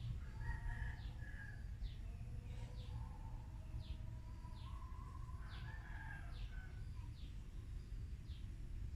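Birds calling: short chirps that fall in pitch, repeated about once a second, over a steady low rumble.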